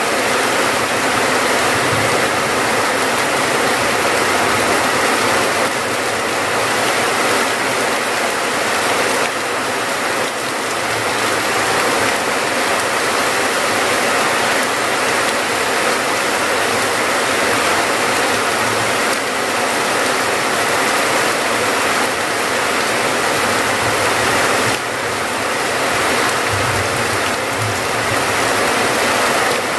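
Steady heavy rain: a dense, even hiss of falling drops.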